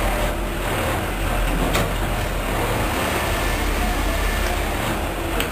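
A train passing: a steady rumble and rush of rolling noise, with a sharp click about two seconds in.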